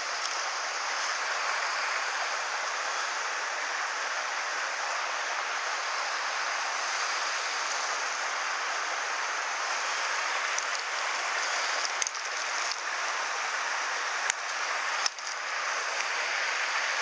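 Mountain stream water rushing steadily. A few sharp clicks or knocks come in the last third.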